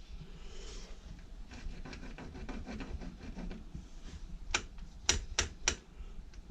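Light rubbing and scraping of hands working at the door and lock, then four sharp clicks in quick succession about four and a half seconds in.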